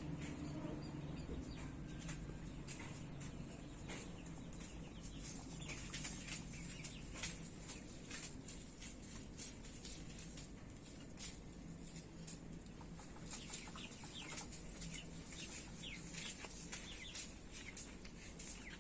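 A flock of broiler chickens calling, many short high calls overlapping throughout, over a steady low hum.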